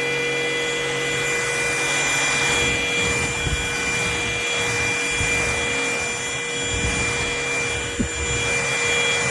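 Cordless stick vacuum running, its motor a steady high whine over a rushing hiss. From about three seconds in, an uneven rumbling scrub comes and goes underneath as the floor head is worked over the floor. A single knock comes near the end.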